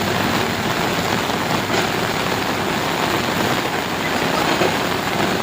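Heavy rain falling steadily, with a vehicle engine running underneath as a low steady hum.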